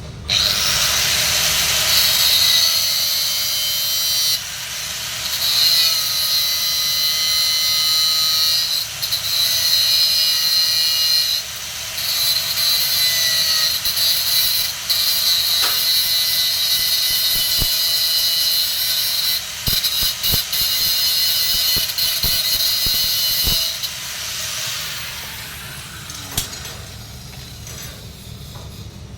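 Welding arc on 3-inch schedule 80 steel pipe, a loud steady crackling hiss that breaks off briefly a few times and stops about 24 seconds in.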